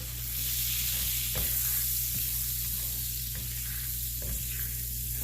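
Browned butter and lemon juice sizzling in a pan while being stirred, a steady hiss with a few light taps of the utensil against the pan.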